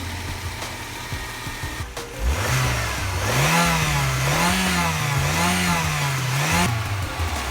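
Toyota Celica engine revved up and down about three times, roughly once a second, then cut off suddenly. The revving starts about two seconds in, after low rumbling.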